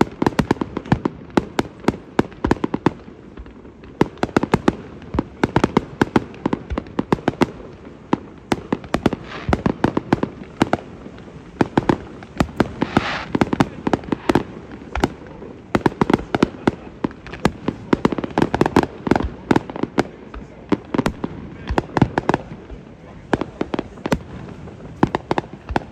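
Fireworks display: a continuous barrage of sharp bangs and pops from aerial fireworks, several every second, with a brief hiss about halfway through.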